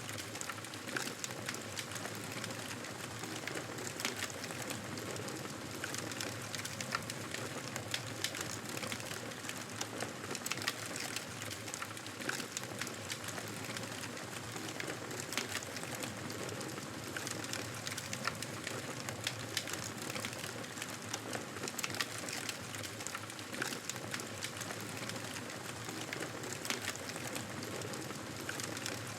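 Campfire burning: a steady hiss with frequent, irregular crackles and pops of the burning wood.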